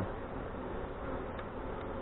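Honey bees buzzing in a steady swarm around an opened hive during a frame inspection. The colony is agitated by the disturbance.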